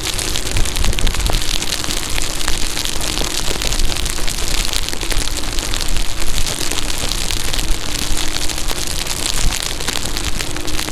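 Steady rain with a dense crackle of drops striking close to the microphone. A faint even hum runs underneath, shifting slightly in pitch now and then: the hub motor of an Inmotion V14 electric unicycle being ridden through the rain.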